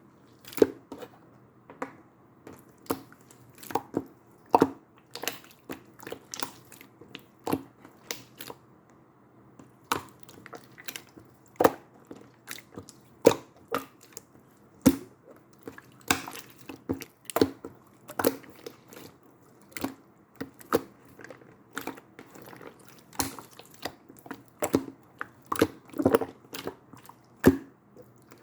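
Slime being squeezed and pressed by hand, giving a string of sharp, irregular clicking pops from trapped air, one or two a second, with soft squishing between them.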